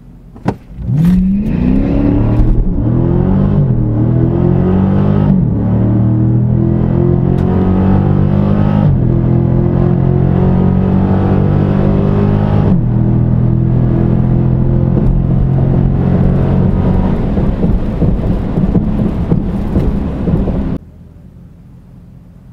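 Car engine at full throttle on a drag run, its pitch climbing and dropping back at each of several upshifts, then holding steadier in the top gears. It starts with a single sharp click and cuts off suddenly near the end.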